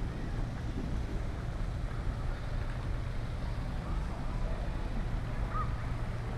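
Steady low rumble of outdoor background noise, with a few faint short chirps in the second half.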